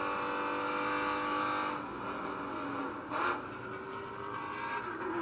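Ford Mustang Shelby GT350's 5.2-litre flat-plane-crank V8 running at steady revs. Its note eases off about two seconds in, a brief rushing noise comes about three seconds in, and the engine picks up again near the end.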